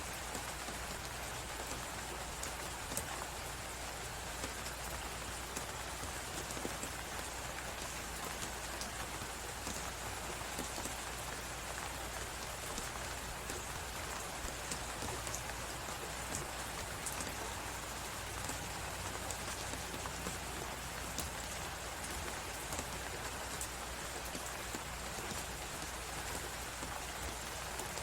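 Crackling fireplace with frequent small pops and snaps over a steady hiss of blizzard wind.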